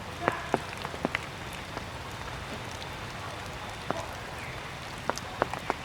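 Water dripping from a rain-soaked tree: irregular sharp drops hitting leaves and the ground over a steady background hiss, a cluster near the start and another near the end.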